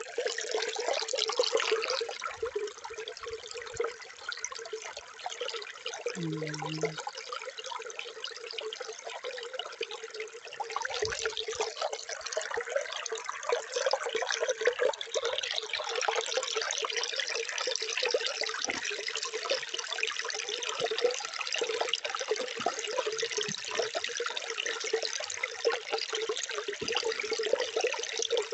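Water running steadily in a continuous splashing trickle, a little fuller in the second half. A brief low hum sounds for about half a second about six seconds in.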